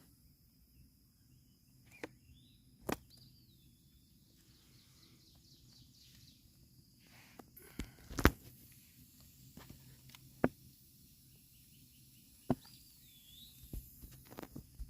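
A bird gives a short looping whistle twice, once early and once near the end, over quiet outdoor stillness broken by scattered sharp clicks and knocks.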